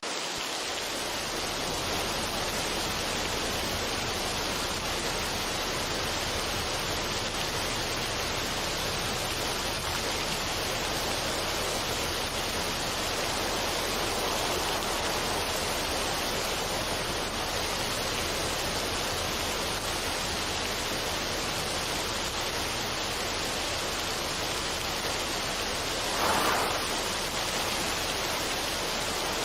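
Steady, even rushing noise with no tune in it, with a brief louder swell near the end.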